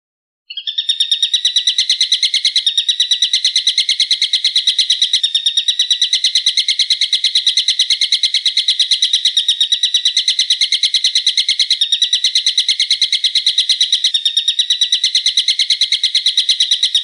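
A songbird giving a long, unbroken run of sharp, rapidly repeated notes, about nine a second and evenly paced, starting about half a second in and cutting off abruptly at the end.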